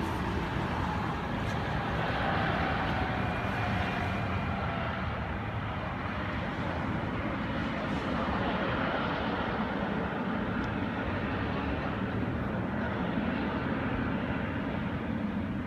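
Boeing 777 jet engines: a steady rushing roar with a whine that slides down in pitch over the first few seconds.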